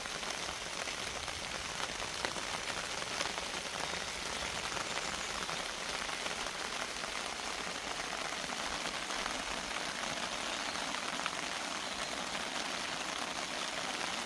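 Steady rain falling, with scattered drops ticking now and then.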